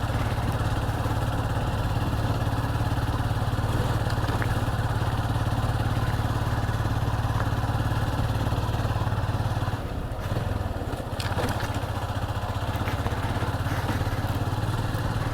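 Motorcycle engine running at a steady throttle while riding. Its note drops lower about ten seconds in, then picks up again.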